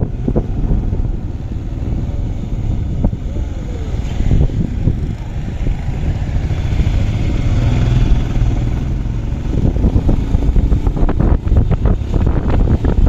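Motorcycle engine running steadily under way, a loud low rumble.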